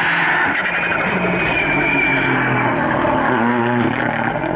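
Rally car engine running hard on a stage, its note rising and dropping several times as the driver works the throttle and gears.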